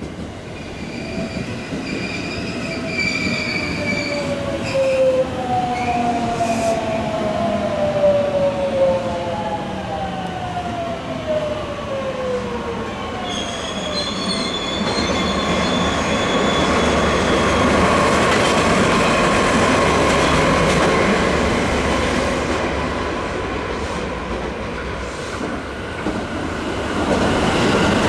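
A DE10 diesel-hydraulic locomotive running light passes by. Several tones fall in pitch over the first half, then rolling wheel-on-rail noise with high, steady squealing tones takes over.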